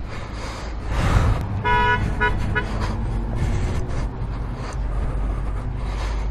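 A vehicle horn honks three short times, the first a little longer, over the steady low rumble of engine and road noise.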